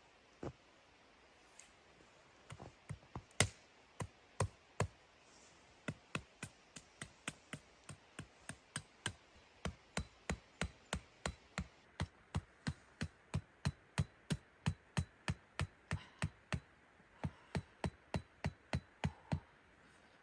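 A rapid series of sharp knocks, like repeated hammering: a few scattered strokes at first, then a steady run of about three a second that stops just before the end.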